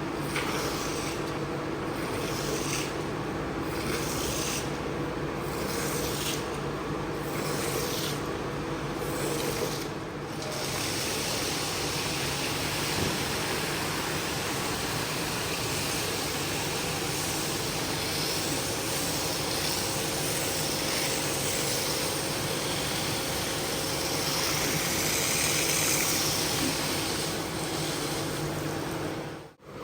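Steady machine noise with a constant hum and a hiss, pulsing in a regular rhythm about every second and a half for the first ten seconds, then running evenly.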